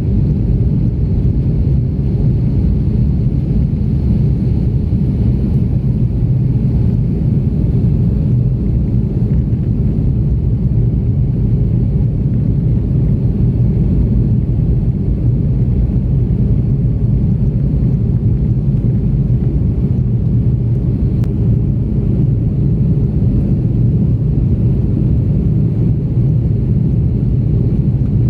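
Steady low rumble of engine and airflow noise inside the cabin of an Airbus A330-300 airliner, holding even throughout.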